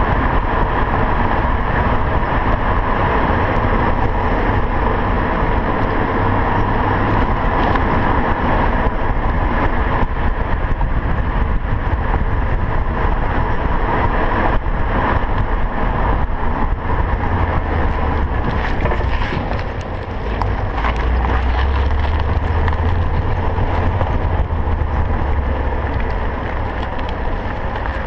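2000 BMW M5 driving slowly over bumps: steady running and road noise with a few sharp knocks from the front end. The front-end clunk persists even with brand-new sway bar links fitted, so its cause is still unknown.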